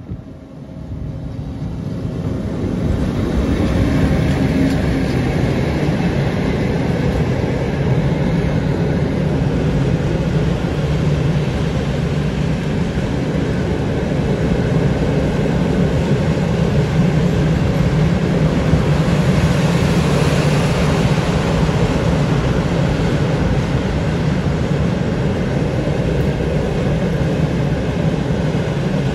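ÖBB class 1144 electric locomotive passing at close range, then a long freight train of covered wagons rolling by: a steady rumble of steel wheels on the rails, swelling over the first few seconds as the locomotive arrives and holding steady after.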